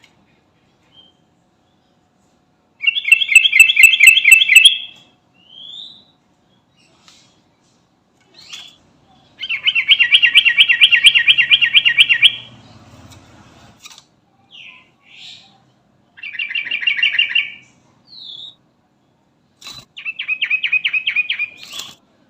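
Yellow-vented bulbul (trucukan) singing: four loud, fast rattling trill phrases, with short single notes between them.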